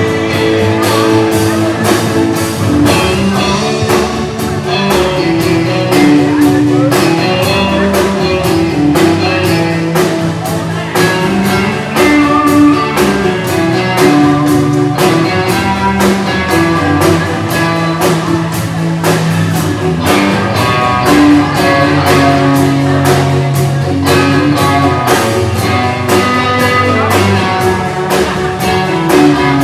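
Instrumental passage of band music: guitar over bass and a drum kit keeping a steady beat, with no singing.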